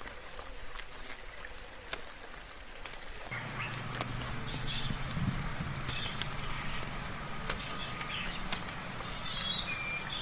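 Steady rain hiss with scattered drop ticks, and short high bird chirps calling now and then from about four seconds in. A low hum sets in about a third of the way through and carries on.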